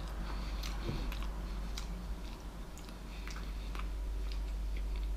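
A man chewing a mouthful of bread and stew, with scattered small wet mouth clicks over a steady low hum.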